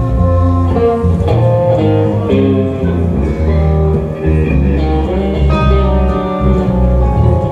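Live band instrumental break in a slow country ballad: a lead guitar plays the melody over bass guitar and rhythm guitar.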